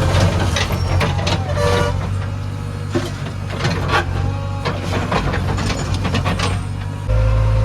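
Heavy diesel engine running steadily, with irregular clanks and knocks over it. About seven seconds in the sound changes abruptly to a louder, steadier engine drone.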